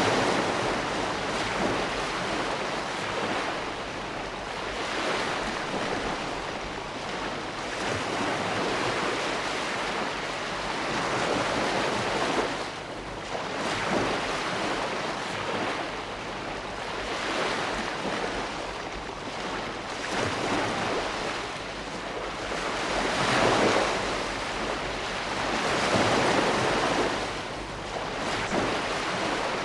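Ocean waves breaking and washing on a shore, a continuous rush of surf that swells and fades every few seconds.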